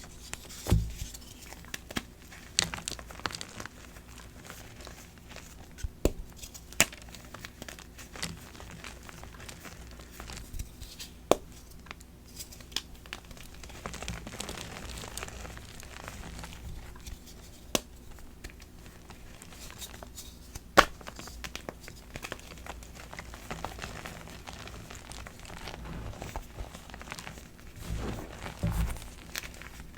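Dyed BSN gym chalk blocks being crushed: a continuous crumbly crunching broken by sharp cracks every few seconds as chunks snap, with a few dull thuds near the end.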